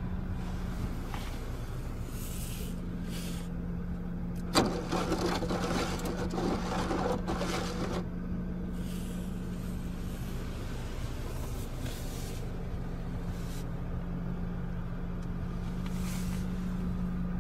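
Steady low hum of a 2014 Chevrolet Cruze idling, heard inside the cabin. About four and a half seconds in there is a click, then about three seconds of louder noise.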